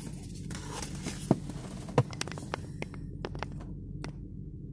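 Steady low hum of an idling car, heard from inside the cabin, with a scatter of short sharp clicks and taps, two louder ones about a second and two seconds in.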